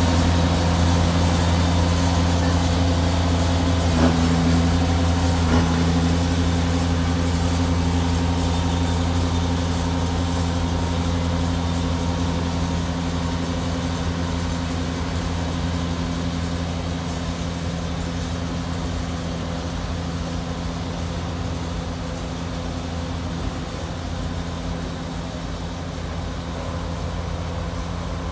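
Slow-moving work train passing close by: a steady low diesel engine drone that slowly fades as it moves away, with two short knocks from the rolling cars about four and five and a half seconds in.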